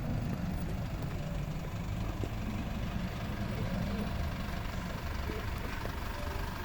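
Dual-mode vehicle, a minibus converted to run on both road and rail, with its diesel engine idling steadily in a low rumble.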